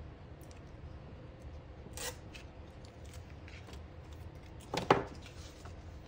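Washi tape being cut with scissors: a light click about two seconds in, then a sharp double snip near five seconds, over faint rustling of tape and paper.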